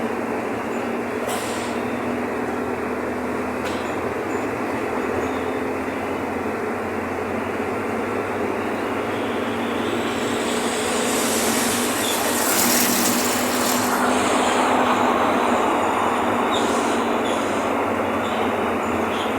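Mercedes-Benz OF-1519 BlueTec 5 bus's diesel engine running with the bus under way: a steady engine drone mixed with road and body noise. It gets louder and brighter a little past halfway, then settles again.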